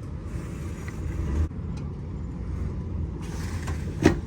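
Ford Expedition SUV engine running with a low rumble while it works a front-mounted plow in dirt, swelling about a second in and then dropping back. A short sharp knock near the end.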